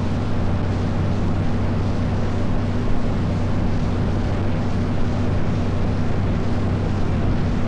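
Small tour boat's engine running steadily under way: a constant low drone, with a steady rushing noise of wind and water over it.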